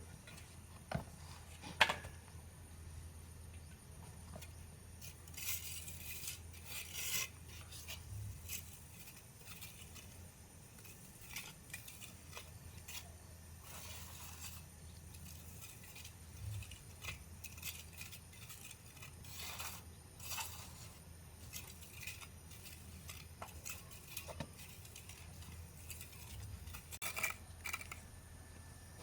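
Faint, scattered scraping and clinking sounds, irregular and short, over a steady low hum.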